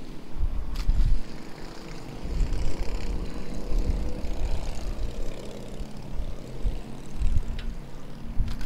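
A motor engine drones steadily, swelling and then fading over a few seconds as it passes. Wind buffets the microphone in gusts throughout, from riding a bicycle.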